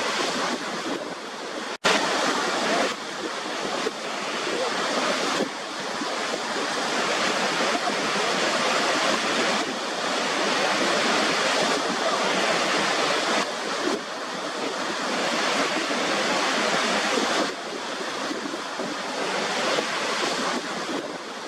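Waterfall water rushing steadily, a dense even hiss-like roar, broken by a momentary gap about two seconds in.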